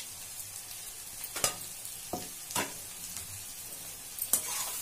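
Egg and vegetable mixture sizzling in a steel kadai with a steady frying hiss. A few sharp scrapes and knocks come from a perforated metal spatula as it stirs against the pan.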